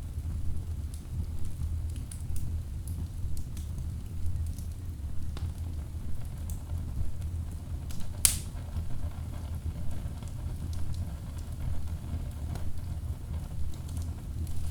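Wood fire burning in a fireplace: a steady low rumble of flames with scattered small crackles, and one loud sharp pop about halfway through.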